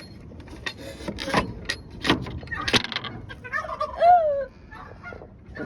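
Scuffling and rustling, then a broody bird's loud call, falling in pitch, about four seconds in: the hen protesting at being disturbed on her nest of eggs.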